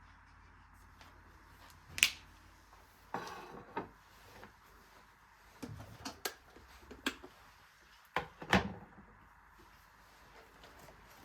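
Household handling sounds: a string of separate short knocks and clicks, the sharpest about two seconds in and another about eight and a half seconds in, with smaller clusters between.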